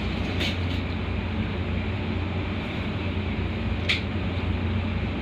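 Steady ride noise inside a moving Metra commuter train car: an even rumble with a low hum. Two short high ticks come through, the louder one about four seconds in.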